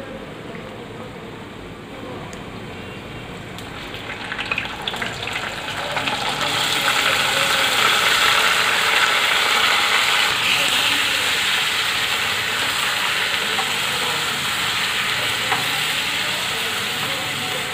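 Yogurt-marinated chicken pieces going into hot oil: a light sizzle that swells about six seconds in into a loud, steady frying hiss as the wet marinade hits the oil. Near the end a wooden spatula stirs the pieces in the pot.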